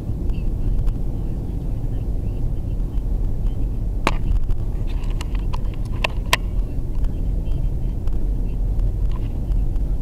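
Steady low rumble of a car's engine and road noise heard inside the cabin, with a few sharp clicks around the middle.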